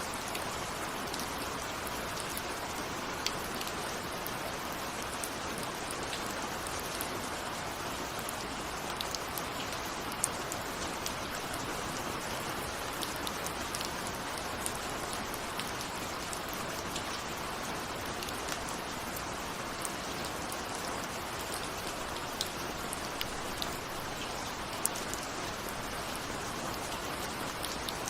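Steady rain falling, with many separate drops ticking sharply at irregular moments; no thunder.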